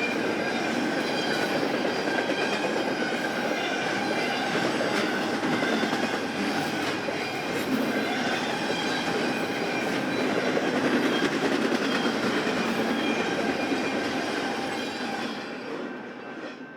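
Freight train cars rolling past on the track: a steady rumble of steel wheels on rail with clicks and a faint wheel squeal, fading away near the end.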